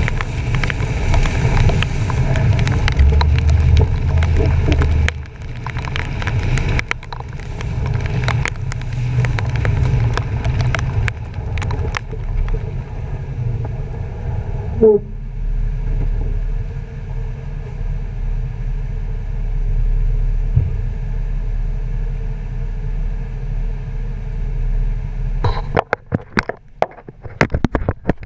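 A truck driving, heard from a camera mounted on its front bumper: a steady low rumble of engine and road noise with scattered clicks. Near the end the rumble drops away into a scatter of sharp clicks and knocks.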